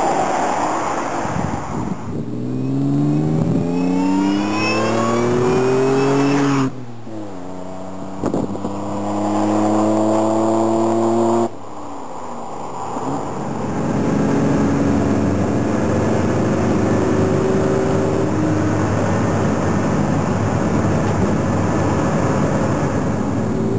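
Exhaust of a supercharged Toyota 4Runner with a Jardine exhaust under acceleration, the engine's pitch climbing. Twice the sound cuts to a quieter, steady pitch, and in the second half the engine runs at a steady, slowly rising pitch.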